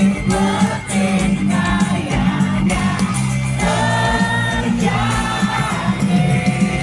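Live pop-rock band music with sung vocals over a steady bass line, with a few long held notes partway through.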